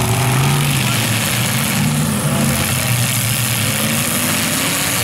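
Several demolition derby cars' engines running and revving through the mud, their pitch rising and falling as the drivers work the throttle.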